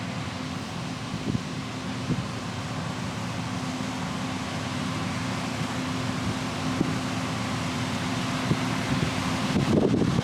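Combine harvester running while cutting soybeans: a steady machine drone with a constant hum, growing slowly louder and turning rougher and louder near the end.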